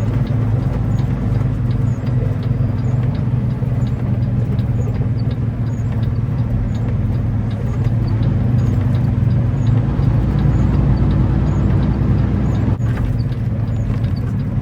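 Semi-truck's diesel engine running with a steady low drone, with faint light ticking at fairly even intervals over it.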